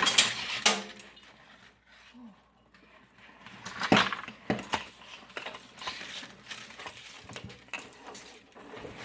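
Scattered clinks and knocks of hard objects being handled, a loud cluster in the first second, then a lull, then irregular sharp clicks from about four seconds in.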